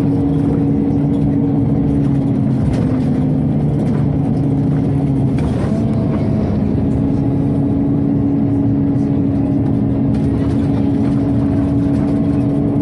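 Inside a Scania OmniCity city bus: steady hum of the ventilation system over the bus running, with a shift in the hum's pitch about halfway through.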